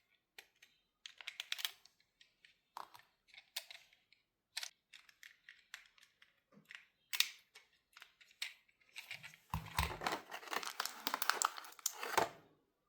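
Hands handling toy-car packaging: scattered clicks and taps, then about three seconds of dense rustling and crinkling with a few low thuds near the end.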